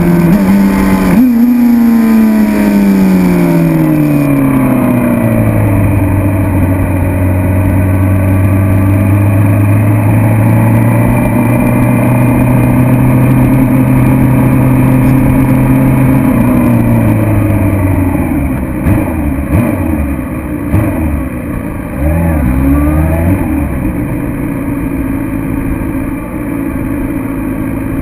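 2006 Suzuki GSX-R750's inline-four engine slowing down, its pitch falling for several seconds as the rush of wind fades, then running steadily for about ten seconds. Just past halfway the revs drop again, followed by a few short throttle blips and low, steady running.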